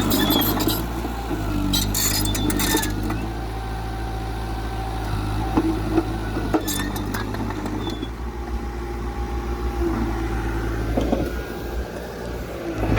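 Heavy earthmoving machine's diesel engine running steadily, with short metallic rattles now and then.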